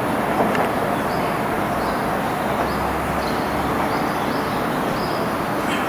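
Steady rumble of a train running along the track as it moves on, with a small bird chirping over it about twice a second.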